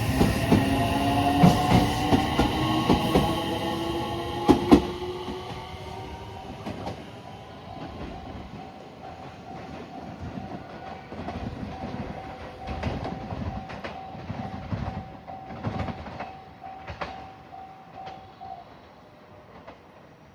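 Electric train pulling away from the platform, its motor whine rising in pitch as it speeds up and its wheels clicking over the rail joints, fading as it leaves. A faint steady tone sounds through the second half and stops near the end.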